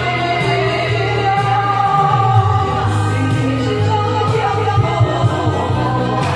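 Karaoke: a singer singing a pop song over a loud backing track with a steady bass beat.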